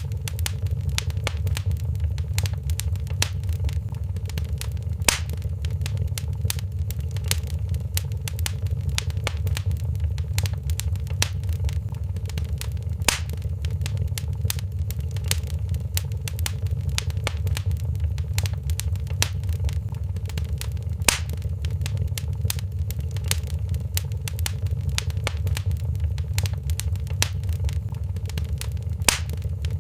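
Wood fire crackling in a fireplace: a steady low rumble under constant small crackles, with a louder pop about every eight seconds.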